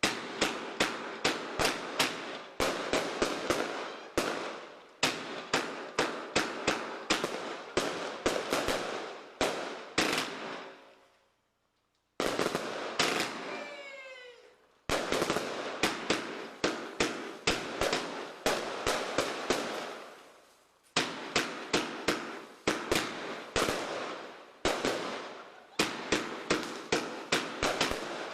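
Fireworks display: rapid volleys of sharp bangs from firework cakes, about four a second, each with a short trailing crackle. The bangs stop for about a second roughly eleven seconds in, then a brief whistling glide sounds before the volleys resume.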